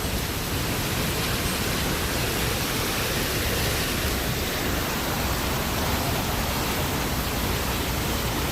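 Floodwater of a swollen river rushing in a steady, loud roar of turbulent water.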